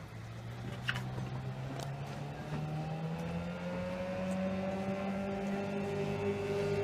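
Outboard motor of an inflatable boat running, its pitch and loudness climbing steadily as the engine speeds up. Two sharp clicks come about a second and two seconds in.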